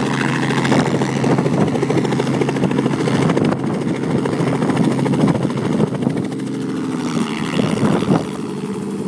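Robinson R44 helicopter running, its piston engine and rotors making a steady pulsing drone. A little past eight seconds the sound drops to a slightly quieter, steadier hum.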